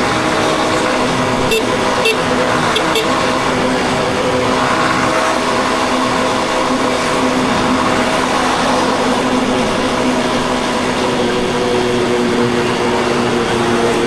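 Yamaha Crosser 150's single-cylinder engine running steadily under way. Its note shifts slightly lower a little past the middle, with a few faint ticks early on.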